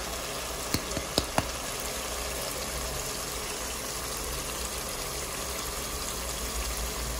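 Onion-tomato masala sizzling steadily in a cooking pot, with four quick light taps about a second in.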